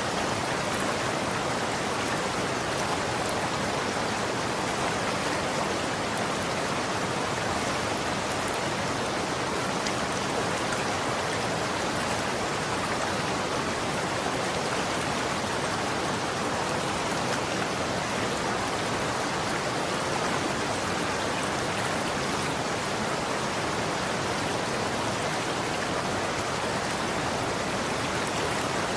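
Running water flowing steadily, an even rushing hiss with no breaks.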